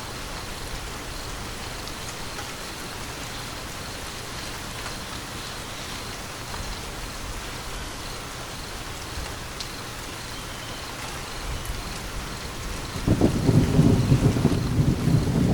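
Steady rain falling with an even hiss, and near the end a loud rumble of thunder rolls in suddenly and keeps going.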